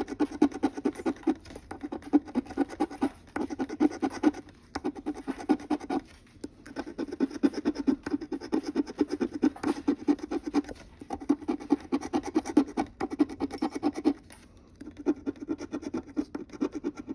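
Lottery scratch-off ticket being scratched off in rapid strokes, in runs broken by short pauses.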